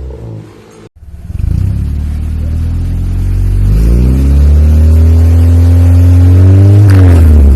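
Car engine revving through an HKS aftermarket muffler. About a second in the sound drops out briefly. Then the revs climb steadily and hold high, with quick up-and-down blips near the end.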